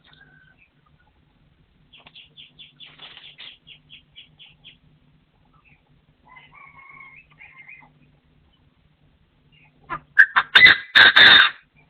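Partridge calling: a rapid run of about a dozen short notes, a shorter call a few seconds later, then a loud harsh burst of calls near the end, the loudest part. A faint low steady hum runs underneath.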